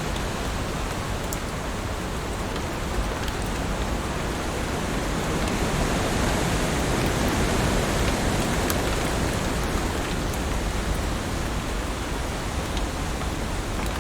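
Heavy rain falling steadily, a dense hiss with a few separate drops ticking through it, growing slightly louder in the middle.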